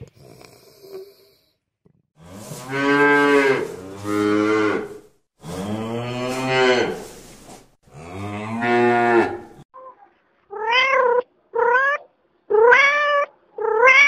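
A cow mooing four times in long, deep calls. About ten seconds in, a tabby cat takes over, meowing four times in short calls that rise in pitch.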